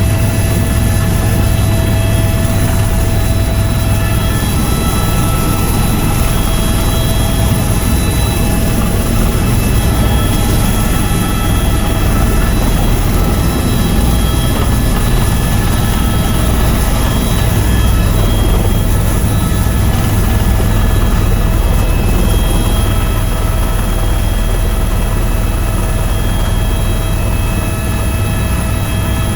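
Tour helicopter in flight: a steady, loud low rotor drone with a constant high turbine whine over it.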